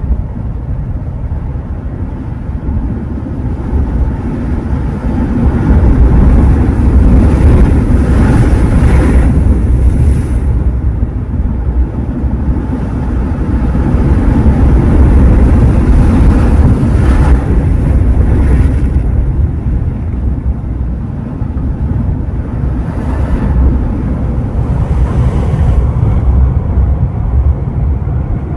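Ocean surf: waves breaking and washing in, rising louder twice as bigger waves come through, with wind rumbling on the microphone.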